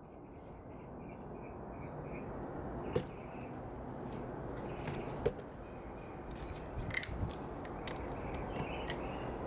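Steady low background noise that slowly grows louder, with a few short clicks and knocks about three, five and seven seconds in.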